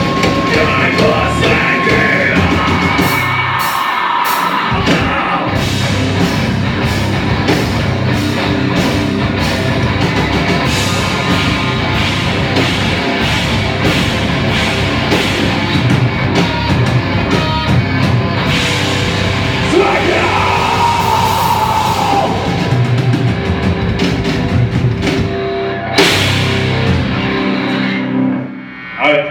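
A rock band playing live, with a drum kit and a singing voice, loud and steady; the music breaks off about a second before the end.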